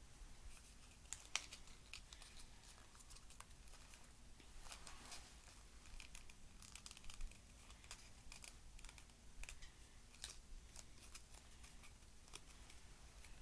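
Faint, irregular snips of scissors cutting paper, with light paper rustling.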